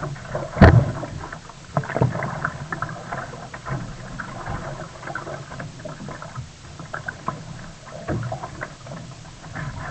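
Sea kayak being paddled: irregular splashing and dripping of the paddle blades in the water, with one sharp knock about half a second in.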